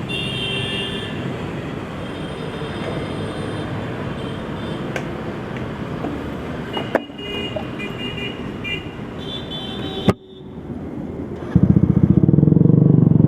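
Road traffic noise with several short vehicle horn toots. About ten seconds in the sound breaks off, and near the end a motorcycle engine runs loud and close, its rapid firing pulses filling the low end.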